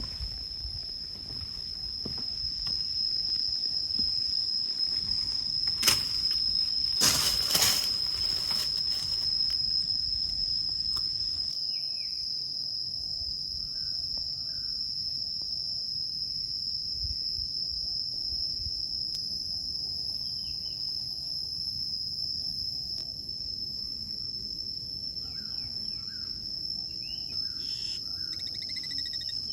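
Insects droning in one steady high-pitched tone, with a few faint bird chirps in the second half. A burst of rustling with two or three sharp clicks comes around a quarter of the way in.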